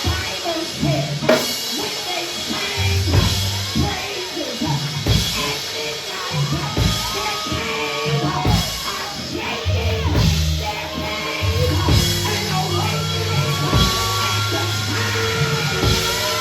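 Church praise music played on a drum kit with bass and sustained pitched parts, keeping a steady beat.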